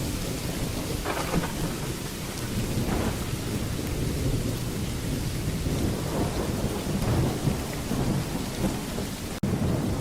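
Steady heavy rain with thunder rumbling low and continuously underneath, and a few brief crackles of thunder in the first seconds. The sound cuts out for an instant near the end.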